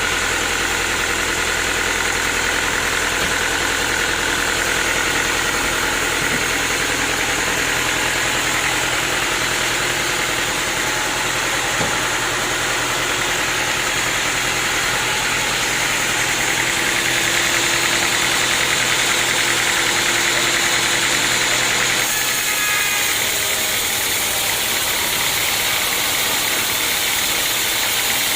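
Sawmill machinery running steadily. About 22 seconds in, the low hum drops away and the sound thins.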